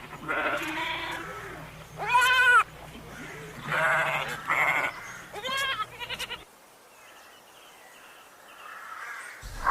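Livestock bleating: about five wavering, quavering calls in the first six seconds, one of them louder and longer around two seconds in, then only faint sound.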